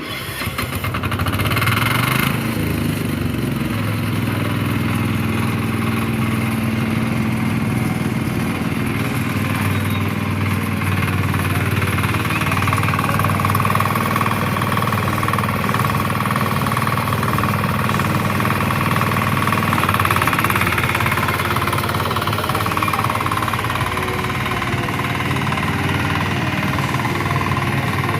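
Power weeder's Kama engine running steadily, coming up to speed in the first couple of seconds.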